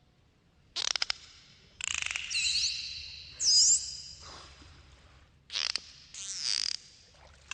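Dolphins clicking and whistling: quick trains of clicks about a second in and again near the end, with several high whistles that sweep up and down in between.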